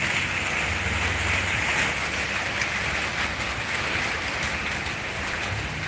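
Heavy rain pouring down steadily in strong wind, with a low rumble about a second in.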